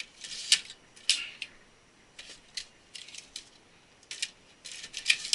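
Hard drives and drive trays being handled and slid into a computer case's drive bays: a run of irregular sharp clicks and short scrapes of metal and plastic.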